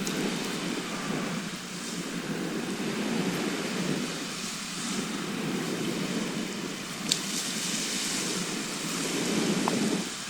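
Sea waves washing on a shore, a continuous noisy surf that swells and eases every couple of seconds. A single short click sounds about seven seconds in.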